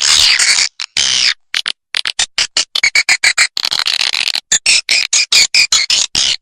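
Recorded swiftlet calls used as a lure for swiftlet nest houses: a dense twittering in the first second or so, then rapid runs of short, sharp clicks and chirps.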